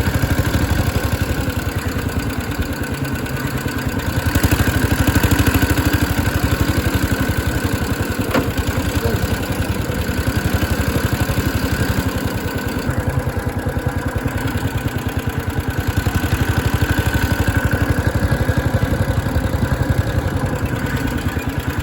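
Small mini bike engine running steadily while the bike is ridden at low speed; it grows louder for a couple of seconds about four seconds in.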